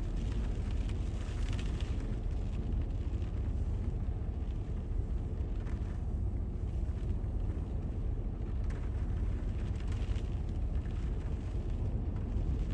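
Storm wind buffeting the microphone: a steady, deep rumble with a hiss of gusting air above it.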